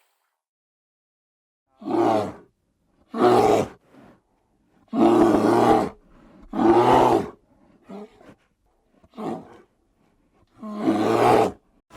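A large animal calling in a series of about six loud, deep calls, each under a second long, with a few fainter calls between them.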